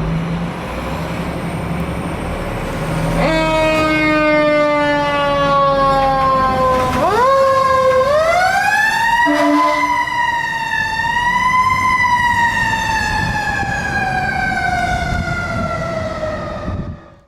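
Siren of a 2022 Seagrave Marauder fire engine responding: after a few seconds of truck engine rumble, the siren sounds, sweeping up steeply, peaking, dipping and rising again, then gliding slowly down in pitch before cutting off near the end.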